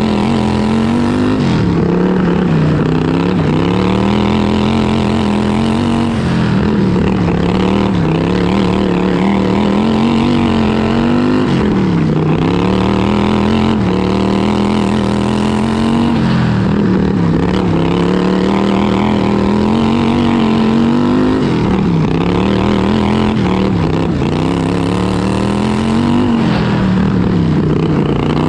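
Racing lawn tractor's vertical-shaft V-twin engine running hard, heard onboard; its pitch dips and climbs again every few seconds as the throttle comes off and goes back on around the track.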